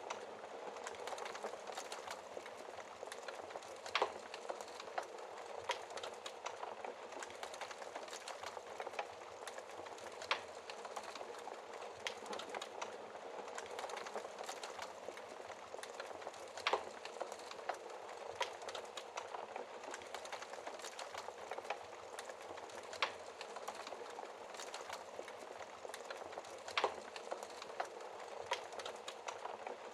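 Wood fire crackling in a fireplace: a steady soft hiss of the flames with many small crackles, and five louder sharp pops from the burning logs at intervals of several seconds.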